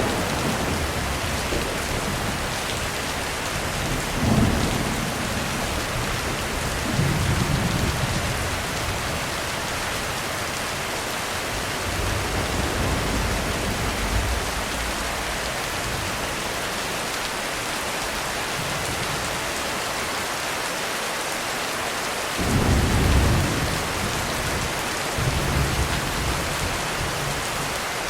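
Heavy, steady rain on a roof, with thunder rumbling low several times, loudest about 22 seconds in.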